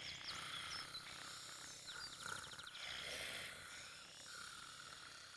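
Faint outdoor birdsong: scattered high chirps, with a short rapid trill about two and a half seconds in.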